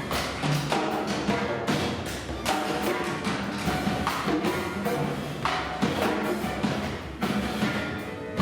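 Chamber ensemble of strings, percussion and keyboards playing free improvisation: dense, irregular drum and percussion strikes over sustained pitched tones.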